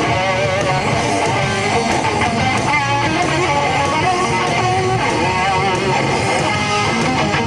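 Live rock band playing an instrumental passage between sung verses: strummed electric guitars over bass and drums.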